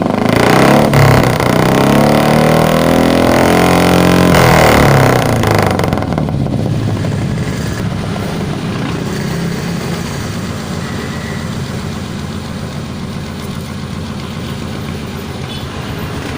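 Carburetted Suzuki Futura engine revved up and down through its aftermarket header exhaust, then dropping back to a steady idle about six seconds in.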